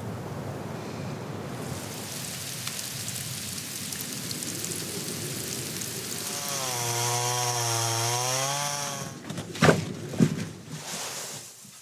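Steady storm wind, then a pitched, wavering drone lasting a couple of seconds and two sharp knocks about half a second apart.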